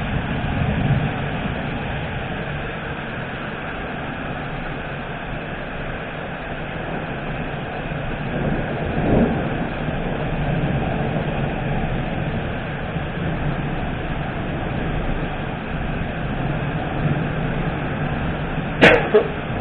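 Thunderstorm: a steady rushing of wind or rain with low thunder rolling in and out, swelling strongest near the middle. Near the end there is a single sharp click.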